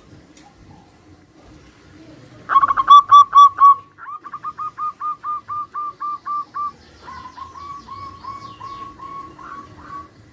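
Zebra doves (perkutut) cooing: three runs of rapid, evenly spaced short coo notes, the first about two and a half seconds in and loudest, the next two each fainter, as the birds answer one another.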